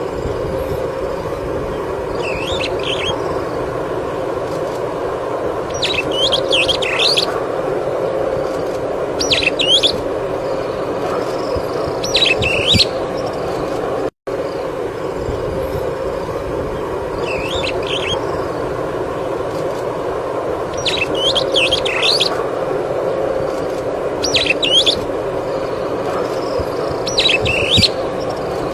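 Superb starling calling: short whistled chirps in bursts every few seconds, over a steady low background hum. The same sequence of calls plays through twice.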